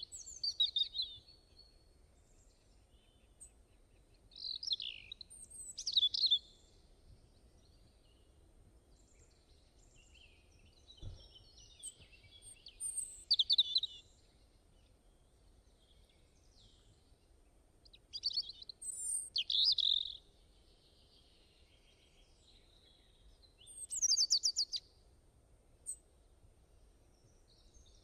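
A songbird singing short, high, fast phrases of chirps and trills, one every five or six seconds or so, over a faint steady low background hiss.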